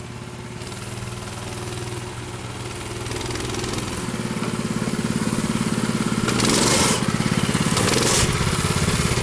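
Minibike's small engine running steadily and growing louder over the second half, with a fast even pulse. Near the end there are two short bursts of hiss.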